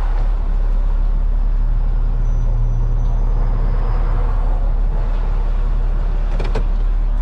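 Tow truck engine running steadily with a low, even hum.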